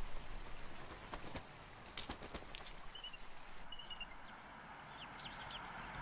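Faint, short, high-pitched bird chirps in brief series over a steady outdoor background hiss, with a few light clicks in the first couple of seconds.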